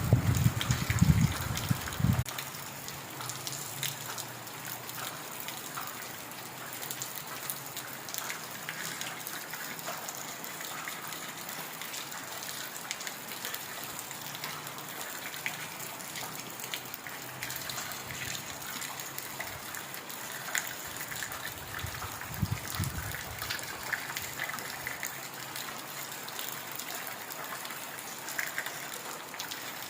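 Heavy rain falling steadily, a dense patter of drops. A low rumble underlies it for the first two seconds and comes again briefly about 22 seconds in.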